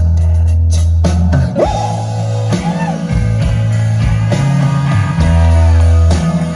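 Live rock band playing an instrumental passage, guitar to the fore over sustained low notes, with a guitar note sliding up about a second and a half in.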